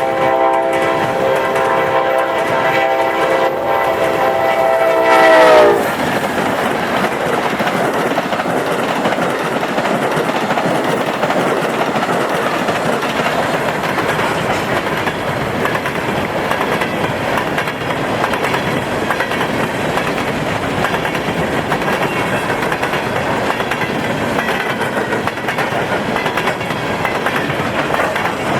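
Horn of an Amtrak GE P42DC passenger locomotive sounding a steady chord as the train speeds past, its pitch dropping as it passes, then cutting off about six seconds in. After that comes the steady rumble and clatter of train wheels on rail joints as the cars roll by.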